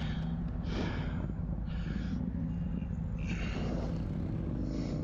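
A motorcycle's V-twin engine running at a steady low speed, a constant low hum with no revving. Four short hissy puffs come over it, about one every second and a half.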